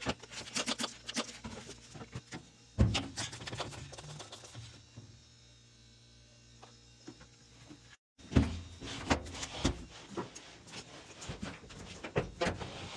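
Irregular clicks and knocks of tools on metal gas pipe fittings while a flare fitting is worked on, with one louder knock about three seconds in and a quieter stretch in the middle. The sound cuts out briefly about two thirds of the way through.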